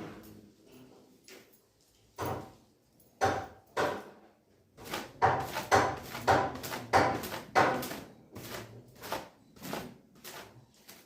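Thin cotton gamchha towel slapping against long wet hair in repeated thwacks, as the hair is dried by hand. A few single strokes come first, then a quicker run of about two a second.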